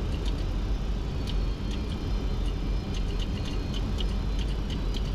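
Steady flight-deck noise of a Boeing 737-200 on final approach: a low rumble of airflow and engine noise, with scattered faint ticks.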